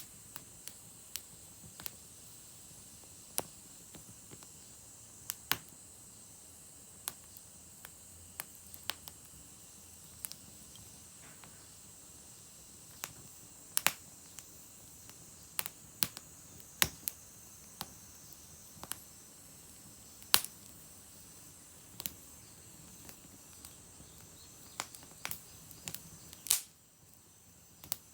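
Wood fire crackling, with irregular sharp pops and snaps from the burning firewood over a soft steady hiss.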